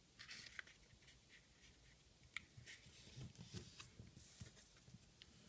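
Faint rustling and short soft scrapes of a sheet of paper being folded and creased by hand, in scattered bursts.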